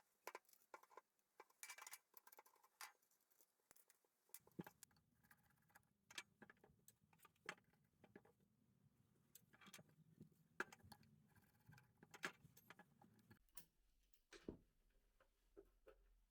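Faint, irregular clicks and light taps of the small parts of an old Kosoku angle grinder being handled and worked on.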